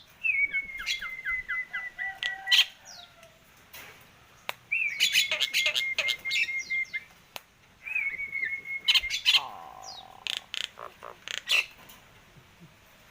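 Nias hill myna calling: three long whistled trills held at a steady high pitch, mixed with sharp clicks and squawks.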